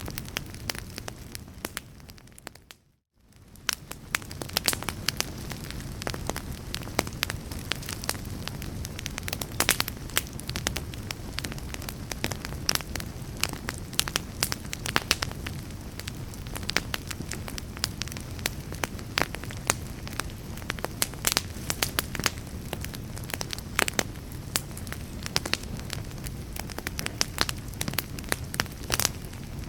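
Wood fire in a fireplace crackling, with frequent sharp pops and snaps over a low steady rumble of flame. The sound fades down to almost nothing and comes back up about three seconds in.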